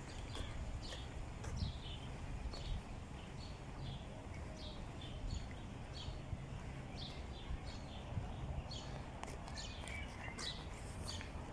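Small birds chirping repeatedly in short, downward-sliding calls, over a steady low rumble.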